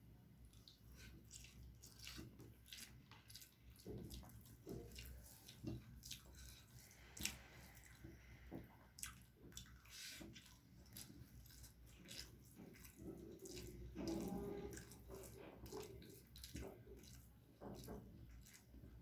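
Faint, irregular wet squishing, smacking and small clicks of a person eating rice with curry, with a slightly longer, louder squelch about 14 seconds in.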